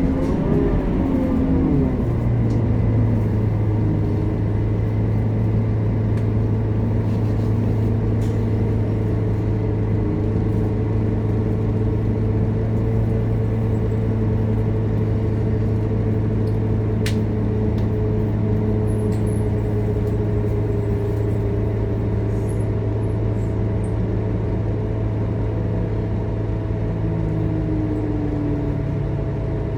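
Scania K230UB Euro V bus's diesel engine and drivetrain under way, heard from on board. The engine note drops in the first two seconds, then holds a steady low drone as the bus cruises.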